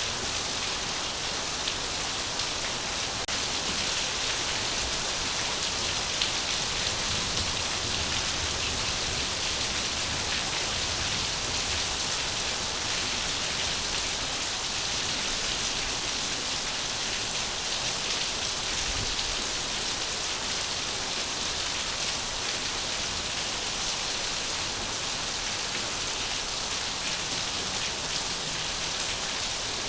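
Steady rain falling: a dense, even hiss of many drops that does not change.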